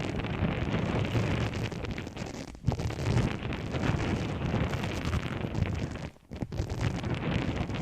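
Close, dense crackling and rustling noise from objects handled near the microphone, breaking off briefly twice, about two and a half and six seconds in.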